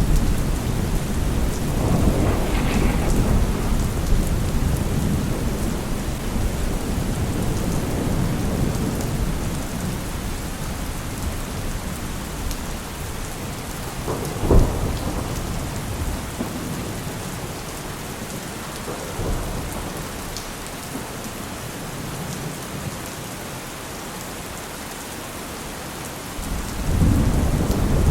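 Heavy rain falling steadily through a thunderstorm: a long low thunder rumble fades away over the first ten seconds or so, a sharp thunderclap cracks about halfway through, and a fresh rumble rolls in near the end.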